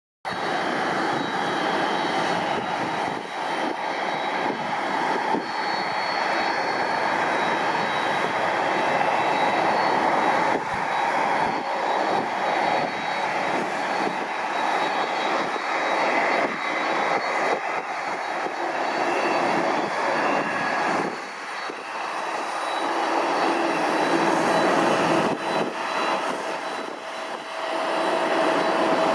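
Jet engines of a Boeing 787-8, Rolls-Royce Trent 1000 turbofans, making a steady rushing noise with faint high whining tones. The noise eases briefly twice in the second half.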